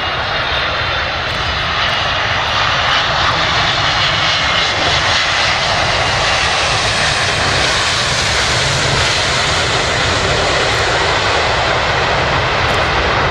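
Airliner engines heard from close by: a loud, steady rush with a faint whine that shifts in pitch, growing a little louder after about two seconds.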